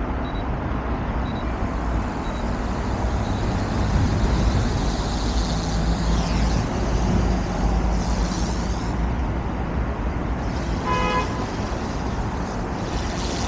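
OMPHOBBY M2 electric RC helicopter flying, its brushless direct-drive motor and rotor whirring and sweeping in pitch as it moves, over a steady low rumble. A short pitched beep or toot sounds once about eleven seconds in.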